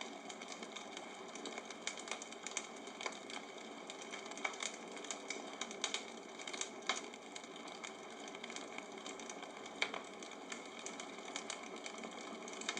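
Bonfire crackling: irregular sharp pops and snaps over a steady hiss of the flames.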